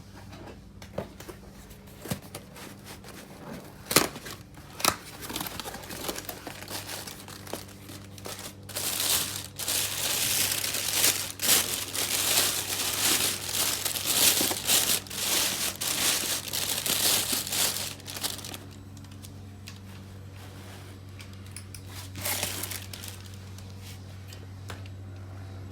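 Packaging or wrapping being handled, crumpled and torn: a few sharp clicks in the first five seconds, then a long stretch of dense crinkling that dies down about two thirds of the way through. A steady low hum runs underneath.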